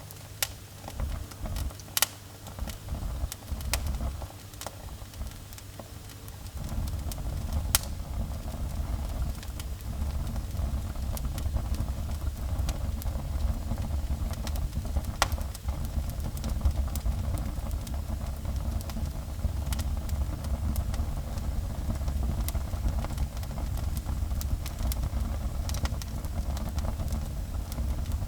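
Wood fire burning in a fireplace: scattered sharp crackles and pops over a low, steady rumble that grows louder about six seconds in.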